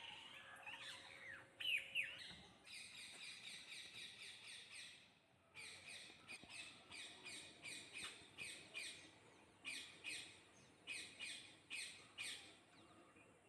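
Small birds chirping and calling. There are runs of quick, high, repeated chirps, with a couple of louder, sharper calls about two seconds in and spaced single chirps toward the end.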